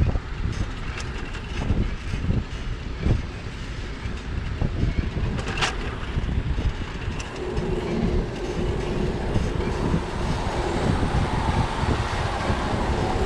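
Wind buffeting the microphone of a bicycle-mounted camera over the noise of a wet city street. A brief sharp click comes about five and a half seconds in. From about seven seconds in, a passing vehicle's steady motor hum rises over the noise.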